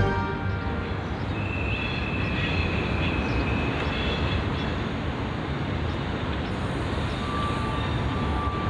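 Train running, a steady rumbling noise with a thin high whine lasting about two seconds, starting just over a second in.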